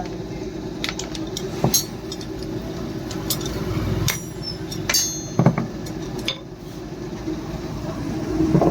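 Scattered metallic clinks and knocks from blacksmithing work, one of them ringing briefly about five seconds in, over a steady low hum.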